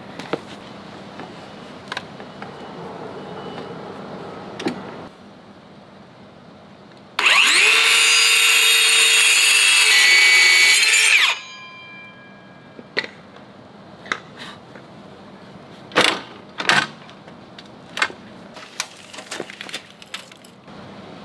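Small circular saw cutting through a wooden board for about four seconds, then winding down with a falling whine after the trigger is released. A few sharp knocks and clicks from handling the board and tool come before and after.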